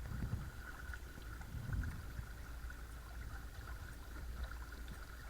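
Water gurgling and splashing around a kayak's hull as it moves under a Watersnake T24 electric trolling motor, with a steady high whine and a low rumble, muffled through a waterproof camera case.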